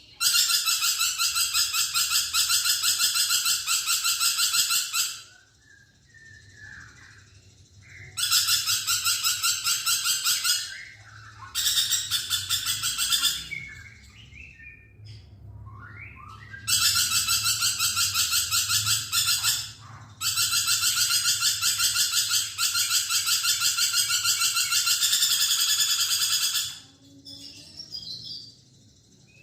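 Lorikeet calling in long bursts of rapid, shrill trilling chatter, five bursts of a few seconds each, with short gaps that hold fainter single calls.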